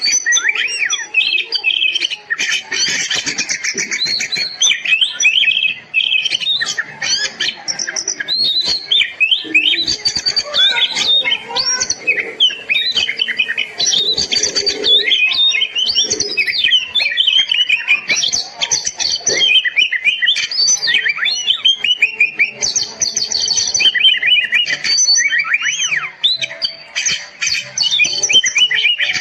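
Oriental magpie-robin (kacer) singing a continuous, fast, varied song of whistled glides, trills and chattering notes with hardly a break.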